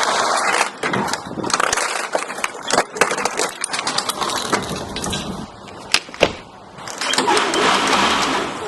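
Lawnmower blade chewing up a plastic toy: a steady dense clatter and crunch, broken by many sharp cracks. It eases off briefly a little past halfway, then comes back up.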